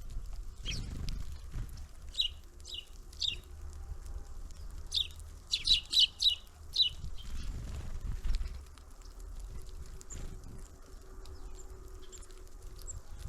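Small birds at a feeder calling in short, sharp chirps: a few spaced ones about two to three seconds in, then a quick cluster a few seconds later, over a steady low rumble.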